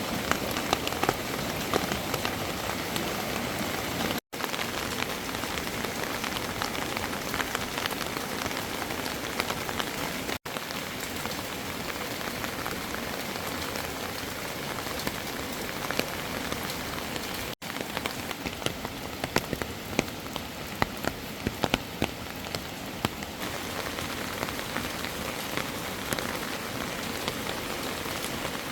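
Heavy rain falling steadily, with many individual drops striking a hard surface close by. The rain cuts out for an instant three times.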